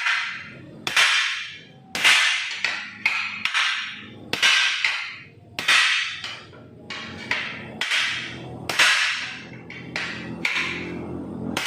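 Hammer blows on the sheet-metal front body of a Daihatsu Sigra during panel-beating repair: a string of sharp strikes at uneven intervals of half a second to a second, each ringing briefly.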